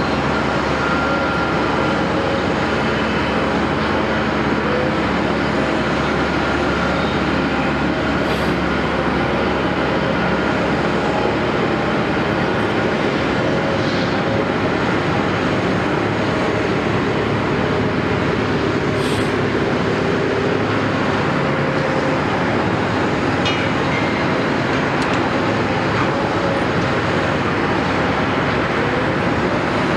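Caterpillar 329E hydraulic excavator running steadily: a constant diesel engine and hydraulic drone with a steady whine on top, and a few short metallic clinks.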